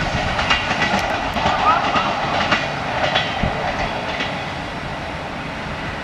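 Passenger coaches rolling over station switches and rail joints: the wheels clack irregularly, then the clatter eases into a steadier rumble about four seconds in as the train moves away.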